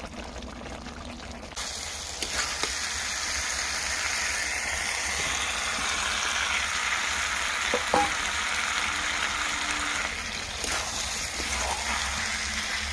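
Food frying in hot oil in a pan, a steady sizzle that starts about a second and a half in, with a few light clicks.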